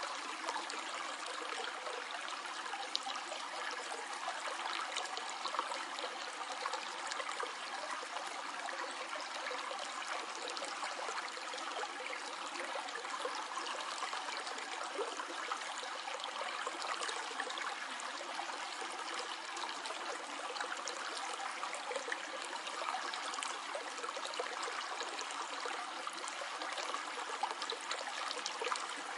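A stream flowing steadily, an even rush of running water with small trickling splashes throughout.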